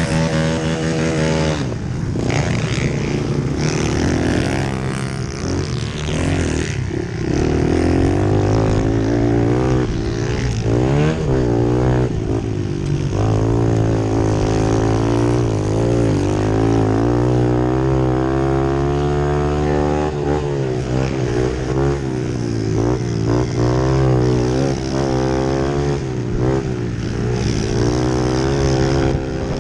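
Pit bike engine running hard, its pitch rising and falling again and again with the throttle, over a steadier engine drone underneath.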